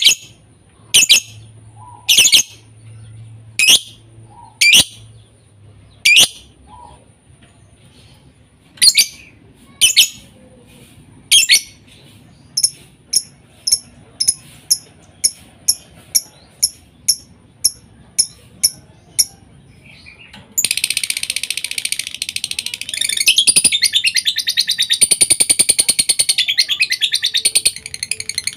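Lovebird calling. First come sharp single shrieks about a second apart, then a quicker run of short chirps about two a second. About two-thirds of the way through it breaks into a long, unbroken, rapid high trill.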